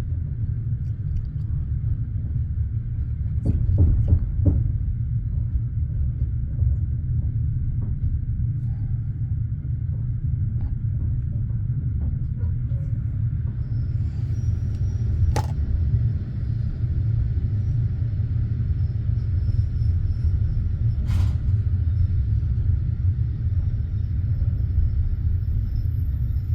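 Passenger train carriage heard from inside, with a steady low rumble. A few knocks come about four seconds in, and there are two sharp clicks later on.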